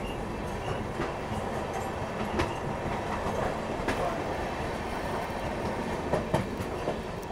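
Moving passenger train heard from aboard a coach: steady running rumble with a few sharp wheel clacks over rail joints, a couple of them close together near the end.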